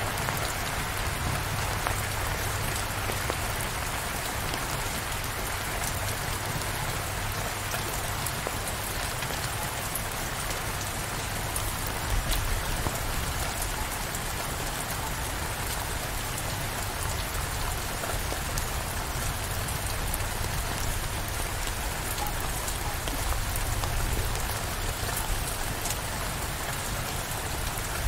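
Steady rain shower: a dense, even hiss of falling rain with scattered sharp drop ticks.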